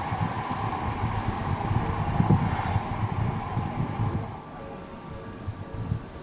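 Gusty low rumble of wind on the microphone over a steady high insect buzz; the rumble drops away about four seconds in, leaving mostly the insects.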